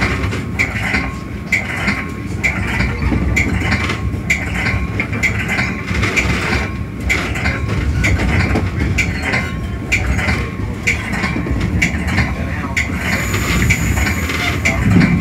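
Metra commuter train running, heard from inside the cab car: a steady low rumble of wheels on rails with a regular clicking about once or twice a second.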